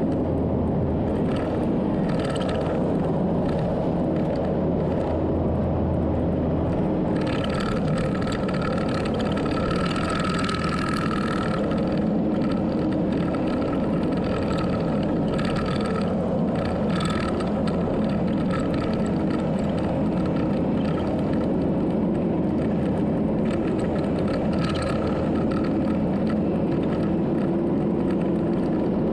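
An engine running steadily at a constant speed, with a higher whine that comes and goes over it.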